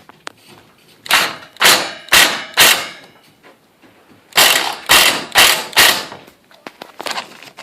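Heavy thuds struck in two runs of four, about two blows a second, with a pause of under two seconds between the runs; each blow rings out briefly.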